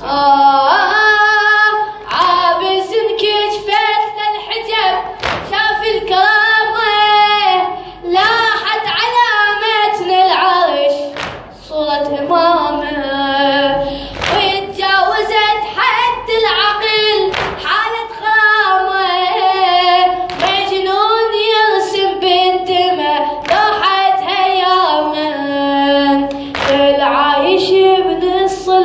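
A man's voice sings a drawn-out, ornamented Arabic latmiya elegy without instruments. Sharp beats fall about once a second in time with the chant, typical of mourners' chest-beating (latm).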